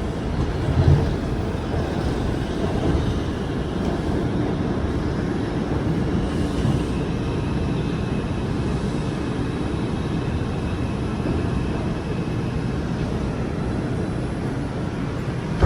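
R142 subway car interior: the steady rumble and hiss of the train running on the rails as it pulls into a station, with faint steady whine tones. A short, sharp knock comes right at the end.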